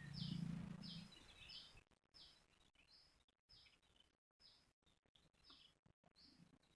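Near silence with a faint bird chirping over and over, a short high falling note roughly every half second. There is a faint low murmur in the first second.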